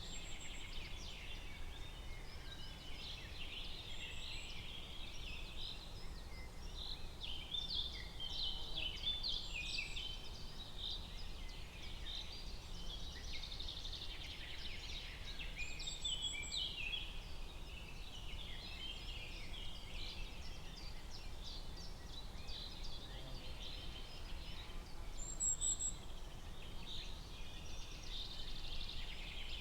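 Forest birdsong: small birds chirping and trilling continuously, with a few short, high whistled calls now and then, over a faint low background rumble.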